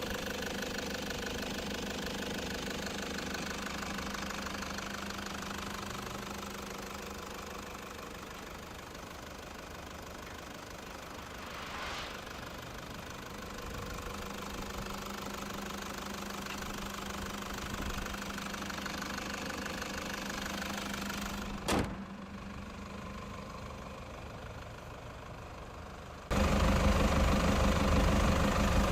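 Toyota Land Cruiser Prado's 3-litre inline-four turbodiesel idling with a steady diesel clatter. There is one sharp click about three-quarters of the way through, and near the end the engine suddenly becomes much louder.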